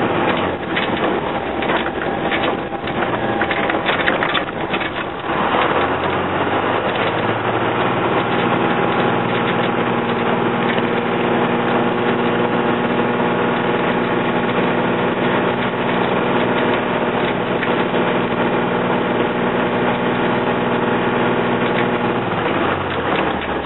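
A 5.9-litre Cummins turbo diesel in a school bus pulling hard uphill at full throttle, heard from inside the cab: a steady engine drone holding one pitch, with body rattles and clatter in the first few seconds. The engine note changes near the end.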